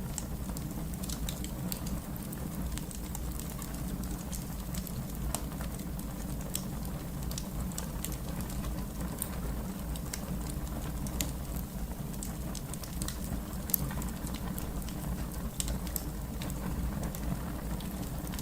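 Wood fire crackling: frequent small sharp pops and snaps over a steady low rumble of the flames.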